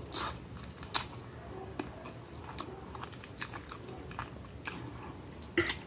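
A person chewing a mouthful of spaghetti in sausage tomato sauce, with soft wet mouth clicks and smacks. Sharper clicks come at the start, about a second in and near the end.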